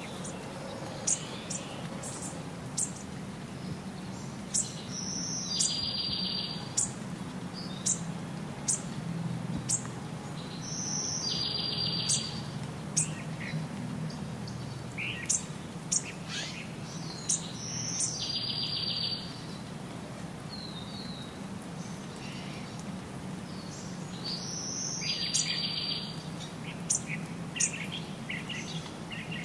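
Songbirds chirping and calling, with many short sharp chirps and a buzzy one-second phrase that comes back about every six seconds, over a steady low hum.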